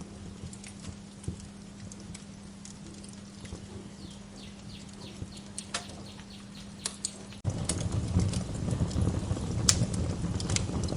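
Wood fire crackling in a fireplace: scattered sharp pops and snaps over a low steady hum. About seven and a half seconds in, the sound suddenly gets louder, becoming a dense low rumble with frequent crackles.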